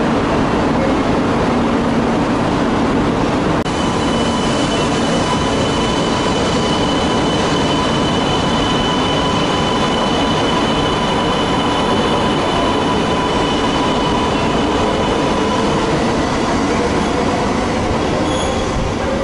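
E2-series Shinkansen train pulling out along the platform, a steady running rumble with high whining tones from its traction motors and wheels that set in a few seconds in and fade near the end.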